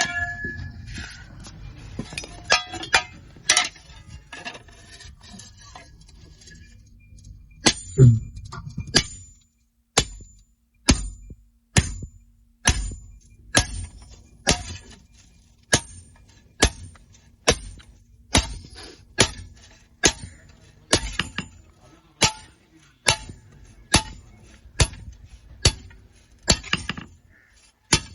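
Hammer striking iron. Scattered metal clinks and one heavy thump come first, then steady blows at about one a second, each ringing briefly.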